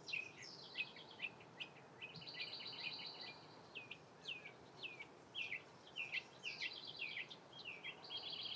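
Wild birds singing: a string of short, downward-sweeping chirps, about two a second, mixed with stretches of a rapid high trill, over a faint steady hiss.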